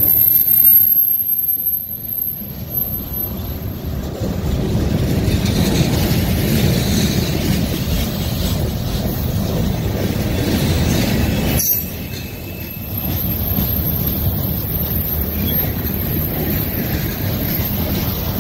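Freight train of centerbeam flatcars loaded with lumber rolling past at close range: a steady rumble of wheels on rail, with a thin high wheel squeal in the first few seconds and again in the last third.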